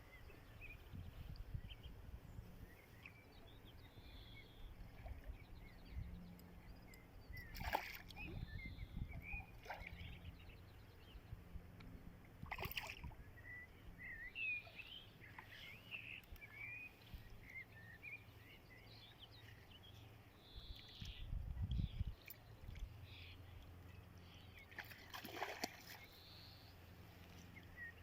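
Small birds chirping and singing throughout, over a low steady rumble. Three brief, louder noisy sounds stand out, about 8 s, 13 s and 25 s in.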